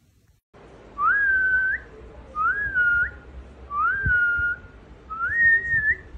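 A person whistling four short calls, each rising, holding steady and turning up at the end, starting about a second in.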